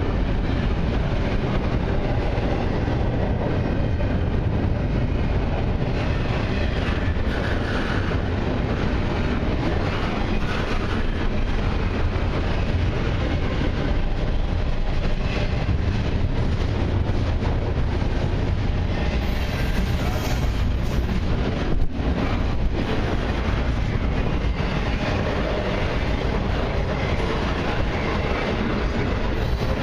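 Freight cars of a long mixed train rolling slowly past, the steel wheels running steadily on the rails.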